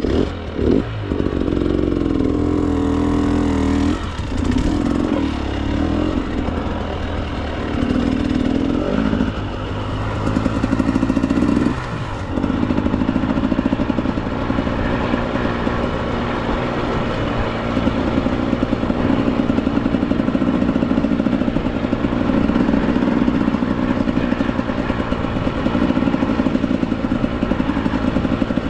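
Two-stroke dirt bike engine, a Husqvarna TE 300, being ridden: it revs up and backs off several times in the first twelve seconds, then runs at a fairly steady pace.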